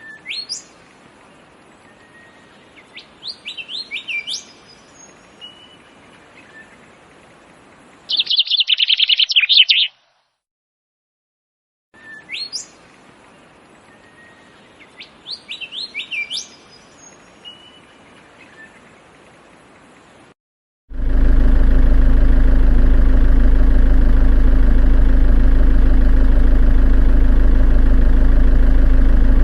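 Birds chirping over a faint hiss, with a loud dense trill about eight seconds in; after a short break the same birdsong passage plays again. About 21 seconds in, a loud steady engine-like idling hum starts and holds.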